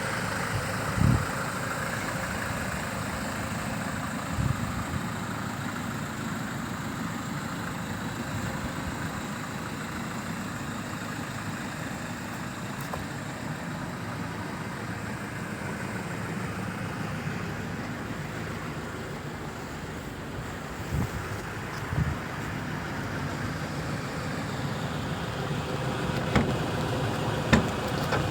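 Land Rover Defender 110's 2.2-litre four-cylinder turbodiesel idling steadily, with a few short knocks and clicks now and then.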